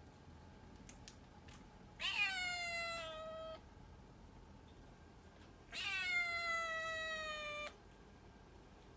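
Short-legged cat meowing twice, two long drawn-out meows, each starting higher and sliding down in pitch, a couple of seconds apart.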